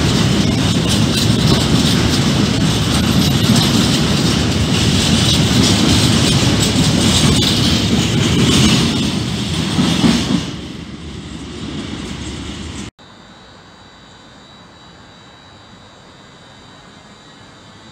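Freight train of hopper wagons running past close by at speed: a loud, steady rush of wheel-on-rail rolling noise that dies away as the last wagons clear, about ten seconds in. After an abrupt cut, a much quieter steady hum of an electric locomotive approaching.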